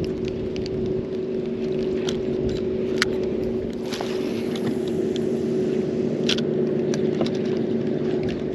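Boat motor running with a steady, even hum, with scattered light clicks and ticks over it.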